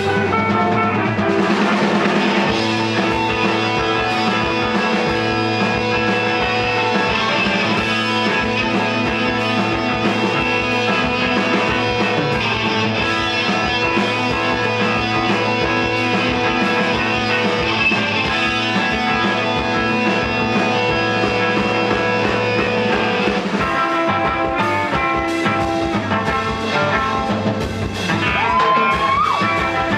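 Live rock band playing an instrumental passage: electric guitar over bass and drum kit, with a sustained low note through most of it and a guitar bend near the end.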